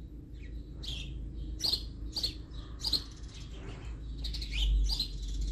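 Small birds chirping, a string of short high chirps at irregular intervals, over a low steady rumble.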